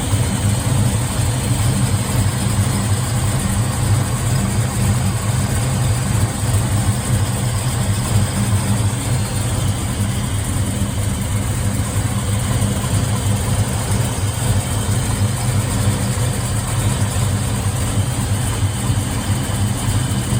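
Chevrolet 427 big-block V8 in a Chevelle SS idling steadily, a low, even pulsing exhaust note with no revving.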